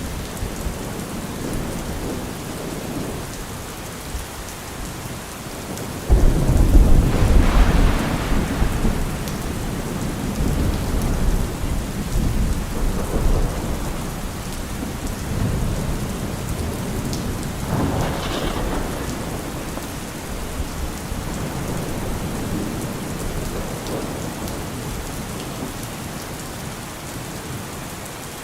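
Heavy rain falling on a car roof, with thunder: a sudden loud clap about six seconds in that rumbles on for several seconds, and a second, shorter peal about two-thirds of the way through.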